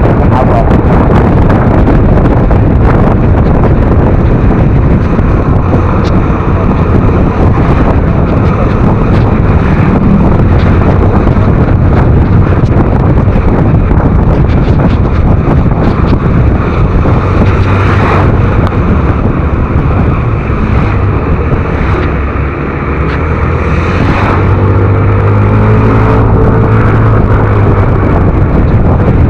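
Wind rushing over the microphone with road and engine noise from a Yamaha NMAX scooter being ridden, with scattered sharp clicks. Near the end a steadier engine tone rises out of the noise.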